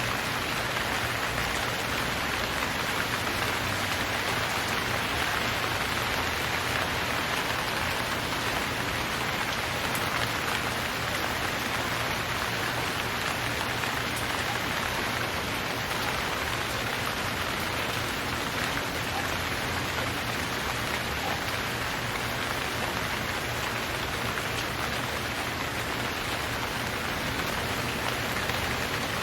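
Steady rainfall, a continuous even hiss of drops on surfaces with no thunder or breaks.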